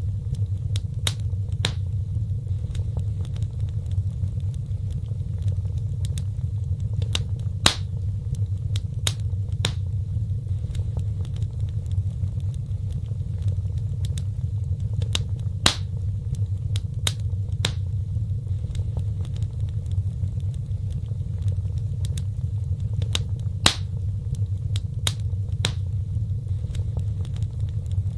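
Wood fire crackling: sharp, irregular pops and snaps over a steady low rumble of burning. The same cluster of pops comes back about every eight seconds.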